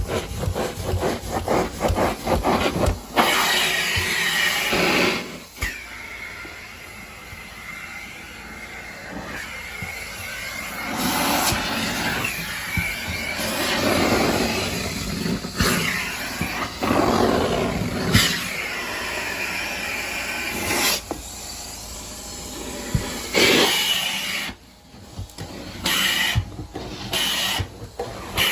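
Carpet-cleaning equipment at work. It opens with a few seconds of rapid scrubbing strokes, then changes to a rushing suction noise that swells and fades in repeated strokes. Near the end the noise cuts off and restarts several times.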